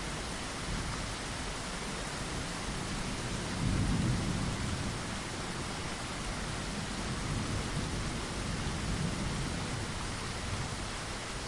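Steady rain falling against a window, with low rumbles of thunder swelling about four seconds in and again a few seconds later.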